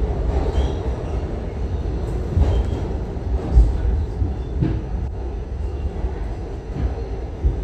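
New York City subway train running: a steady low rumble with several brief clanks and knocks, the sharpest about three and a half seconds in.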